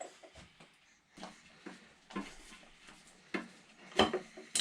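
Scattered light clicks and knocks of a hand tool working bolts on an engine, a few separate taps with the loudest ones near the end.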